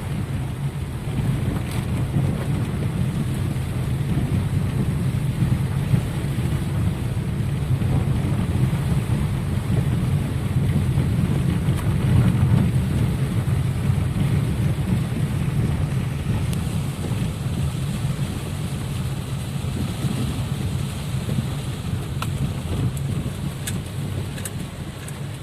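Heavy rain on a flooded street with a vehicle moving through it: a steady low rumble under an even hiss of rain and spray.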